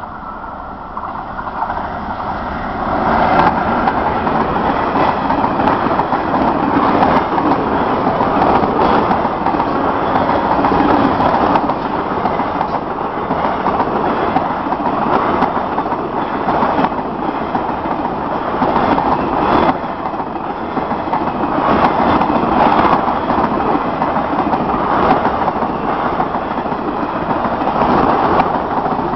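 A train running along the tracks close by, its rumble building over the first few seconds and then staying loud and steady, with occasional faint clicks of the wheels.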